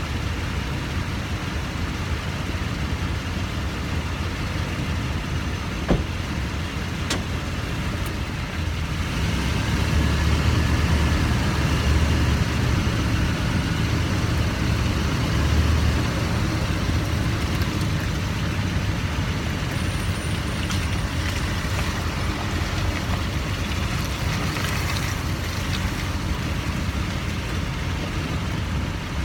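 2009 Nissan Titan pickup running at low speed with a steady low rumble, and one sharp pop about six seconds in, followed shortly by a fainter click. It is the popping noise from the front driver side that the truck makes on right-hand turns, mainly when the underside is wet.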